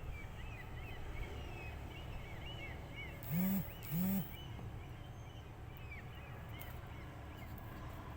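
Small birds chirping repeatedly over a steady low rumble, with two short, loud, low calls about three and a half and four seconds in.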